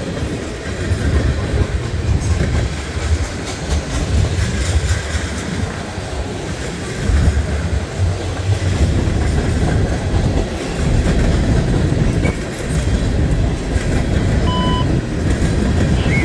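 Freight cars of a long manifest train rolling past: a steady rumble of steel wheels on rail, with a continual patter of clicks and clatter from the wheel trucks.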